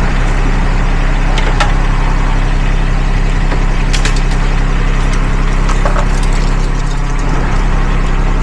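An engine idling steadily, with a few sharp knocks about one and a half, four and six seconds in.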